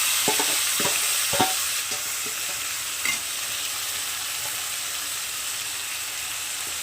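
Marinated chicken sizzling in hot oil with fried onions in a pan. A utensil knocks against the pan or bowl a few times in the first second and a half, and once more about three seconds in.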